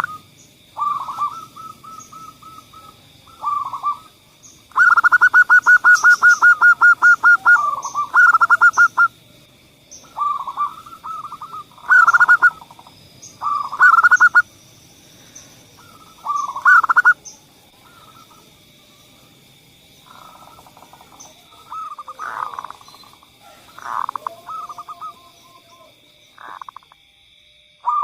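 Zebra dove (perkutut) cooing in repeated phrases, with a fast run of about five coos a second a few seconds in.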